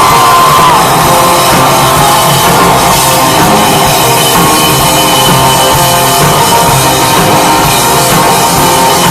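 Live folk-rock band playing a loud instrumental passage with a driving drum beat between sung lines, recorded loud from the audience on a small camcorder.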